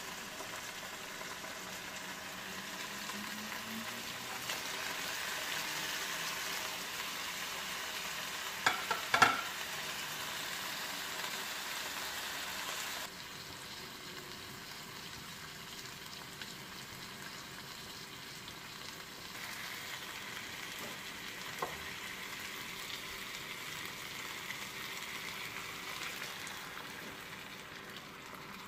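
Chicken pieces, onions and spices sizzling as they fry in a nonstick pan, with a few sharp knocks about nine seconds in. The sizzle drops quieter about halfway through.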